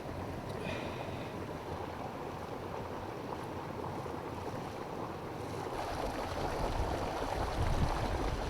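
Wind on the microphone over a steady rushing hiss, the low buffeting rumble building from about halfway through.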